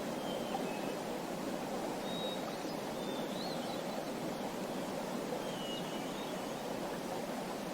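Small birds chirping now and then, short faint high calls, over a steady rush of running water.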